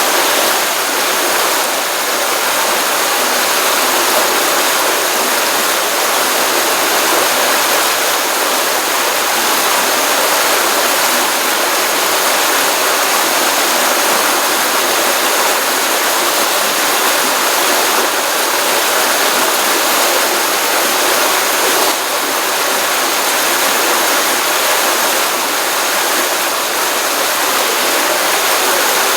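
Stream water running steadily over rocks, an even, continuous rush of flowing water.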